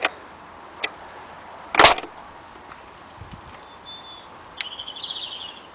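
Sharp clicks and a short metallic clatter from tools and terminals as a motorcycle battery is being reconnected, the loudest clatter about two seconds in. Near the end comes a brief high, rapidly pulsing chirp.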